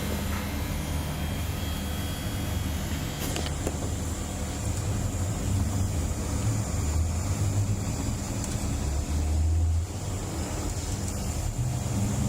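Small battery-powered portable fan running with a steady low hum and a thin high whine. There is a single click a little over three seconds in.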